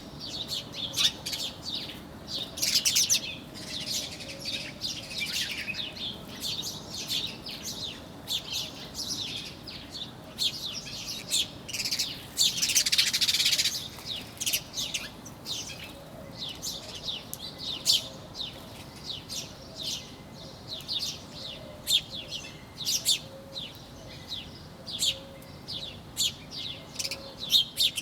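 Several small birds chirping and twittering, many quick high chirps overlapping, with a louder burst of calling about halfway through.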